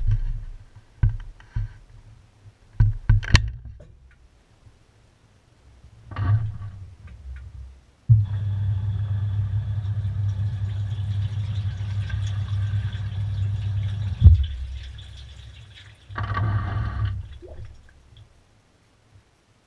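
Washing machine heard from inside its drum: a few knocks and clicks, then water running in with a steady hum for about six seconds. The inflow ends with a sharp knock, and a shorter burst of the same sound follows near the end.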